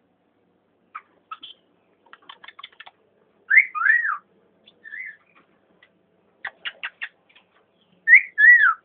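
Cockatiels calling: two loud two-note whistles, one about three and a half seconds in and another near the end, each rising then falling in pitch, with soft clicks and short chirps between them.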